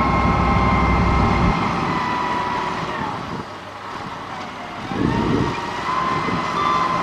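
Heavy diesel road-construction machine running, with a steady whining tone over the engine noise; its deep rumble drops away about a second and a half in, the sound dips and its pitch falls a few seconds in, then the engine picks up again.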